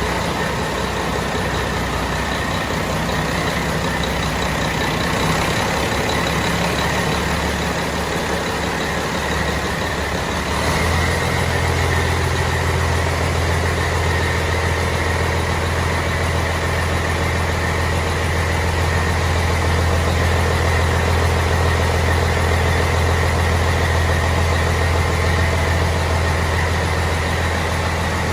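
Caterpillar C-12 inline-six diesel engine running on a dynamometer. About ten seconds in its low note steps up and gets a little louder, then holds steady.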